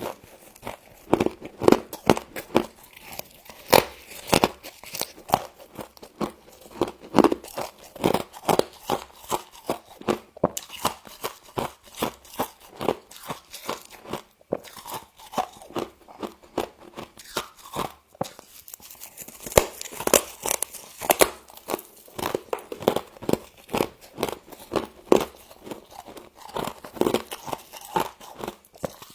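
Close-up crunching and chewing of humidifier-grown freezer frost: dense, irregular crackles as a mouth bites through and grinds the soft ice crystals.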